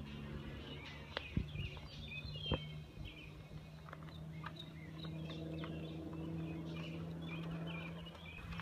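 Small birds chirping and twittering outdoors over a steady low hum, with a few scattered faint knocks.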